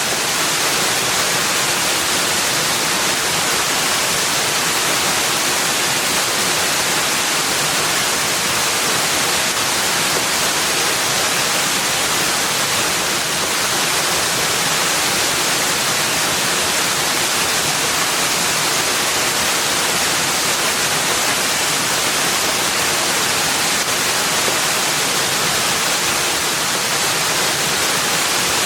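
Steady rushing water, an even hiss that holds at one level with no breaks or separate events.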